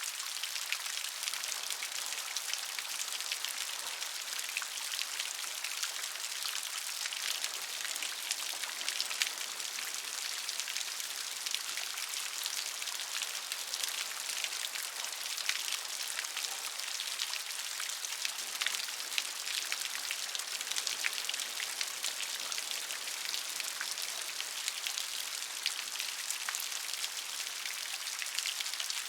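Steady gentle rain: a dense patter of drops on a surface, with a soft hiss and no low rumble.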